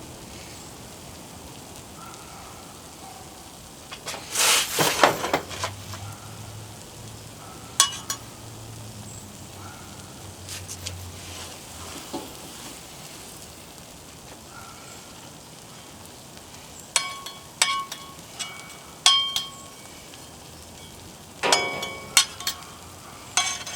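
Cheese sandwiches sizzling steadily on a Blackstone flat-top griddle, broken by sharp scrapes and clinks of a metal spatula against the griddle steel. The loudest scrape comes about four seconds in, with a run of ringing clinks late on.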